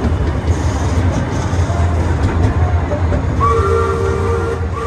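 Amusement-park ride train running with a steady low rumble. About three and a half seconds in, its horn sounds a steady chord that holds for over a second.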